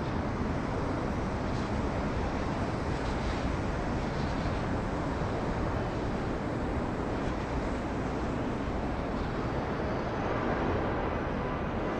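Steady rumble of jet airliner engines heard at a distance across the airport, with no single event standing out.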